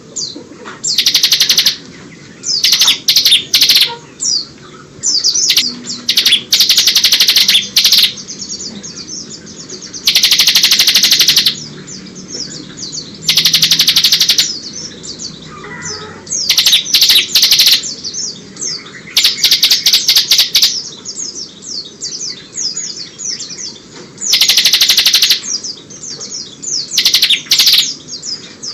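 Bar-winged prinia (ciblek) singing: loud, rapid buzzing trills of about a second each, repeated many times, between quicker high chirping phrases. Its song is filled with learned white-eye (pleci) calls.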